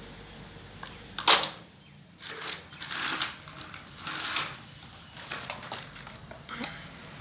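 A sharp clack about a second in, then bursts of scraping and rattling, and a click near the end, like small hard objects being handled.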